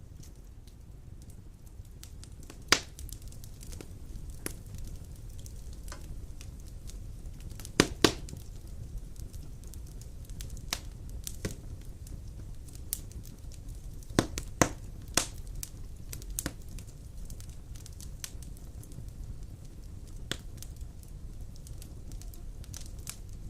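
Wood fire burning in a fireplace, crackling over a low steady rumble, with scattered sharp pops. The loudest pop comes about three seconds in, a close pair near eight seconds, and a small cluster around fourteen to fifteen seconds.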